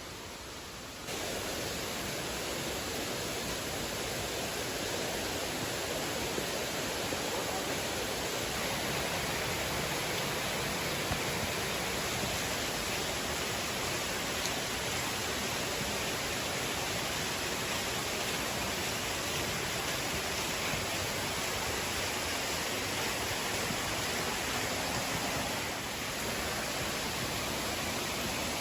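Steady rushing of flowing water, an even hiss that grows louder about a second in and keeps on without a break.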